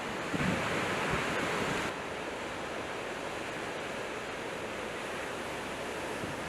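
Strong blizzard wind rushing across the microphone, louder for the first two seconds, then dropping to a steady rush.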